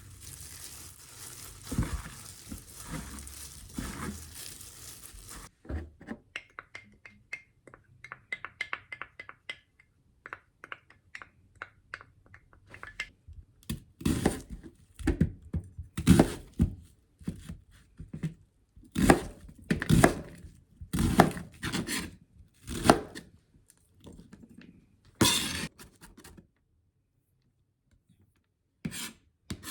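Handling noises: a run of light quick ticks, then a string of louder thunks and knocks, with a quiet spell near the end.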